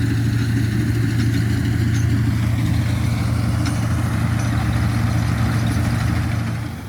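Ford 3610 tractor's three-cylinder diesel engine running steadily with a low, even drone, easing slightly in level near the end.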